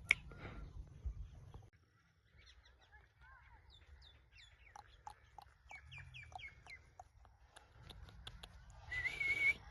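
Ringneck parakeet chirping, with a run of short whistled notes that drop in pitch, then a louder, harsh wavering call near the end. A sharp click sounds at the very start.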